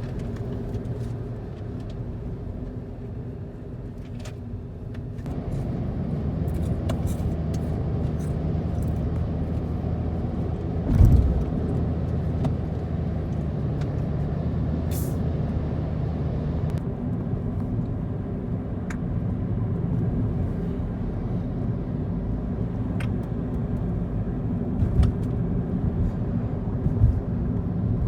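Motor vehicle running steadily, a low engine hum with road noise that grows louder about five seconds in, and a single thump about eleven seconds in.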